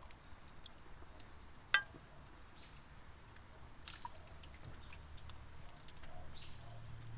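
Faint ambience: several short, high chirps and one sharp click about two seconds in, over a low steady hum.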